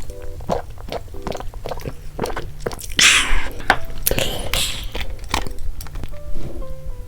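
Close-miked crunchy bites and chewing, with two louder crunches around the middle, over soft background music.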